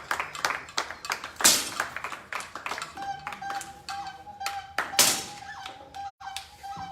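Air pistol shots: sharp cracks about 1.5 and 5 seconds in, among scattered lighter taps and clicks, over background music with a steady held tone from about three seconds in.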